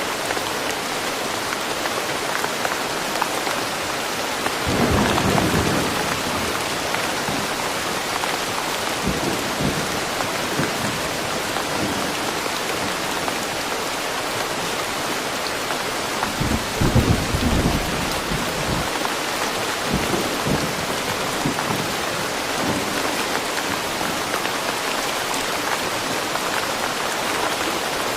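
Steady rain falling, with a low roll of thunder about five seconds in and a second, louder rumble around seventeen seconds.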